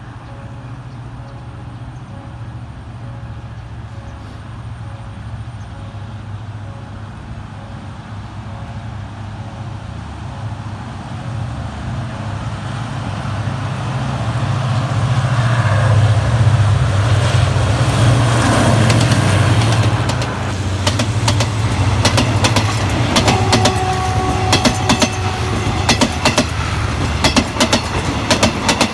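SRT GEA-class diesel-electric locomotive hauling a passenger train: its engine drone grows steadily louder as it approaches and is loudest as it passes, a little past halfway. The coaches follow, with wheels clicking rapidly over the rail joints.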